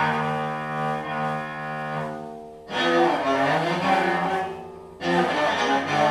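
Cello bowed in long held notes, in three phrases that each begin with a sudden attack; the middle phrase slides and wavers in pitch.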